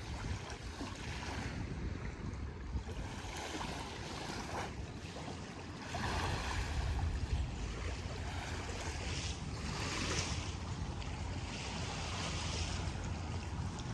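Small waves washing onto a river beach on the Rhine, swelling and falling every few seconds, with wind on the microphone.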